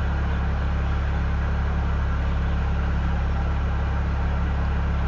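Steady low engine drone, an even idling hum with no change in pitch or level.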